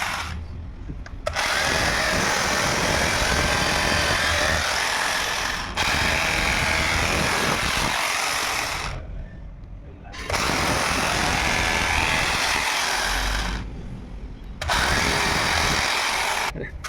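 A hand-held electric power drill running in four long bursts of a few seconds each, with short pauses between them.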